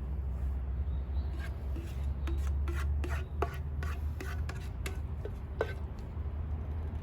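A utensil scraping and clicking against a pan as one-pan pasta is stirred and tossed, with a quick run of clicks from about a second and a half in to near six seconds, over a steady low rumble.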